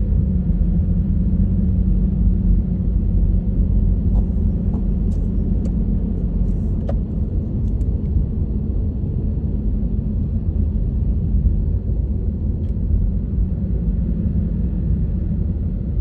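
Honda HR-V driving, a steady low rumble of engine and tyre noise on the road, with a few faint clicks a few seconds in.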